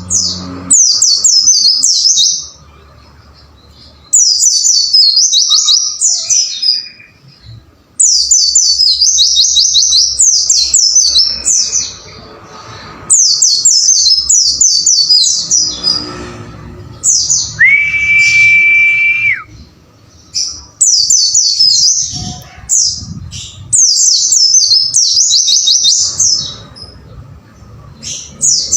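White-eye (pleci) song: repeated bursts of rapid, high, chirping notes, each burst a second or two long with short pauses between. About two-thirds of the way through there is one long, lower whistle held for well over a second.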